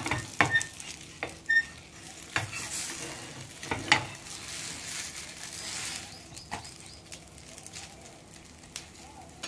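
A batter paratha sizzling in oil on a hot iron tawa while a flat spatula scrapes and taps against the griddle as it is turned over. There are a few sharp scrapes, the loudest about four seconds in, and the frying hiss grows quieter in the last few seconds.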